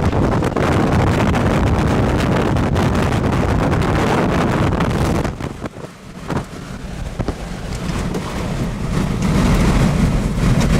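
Strong wind battering the microphone with a heavy low rumble. It drops off sharply about halfway through, then builds back up to full strength near the end.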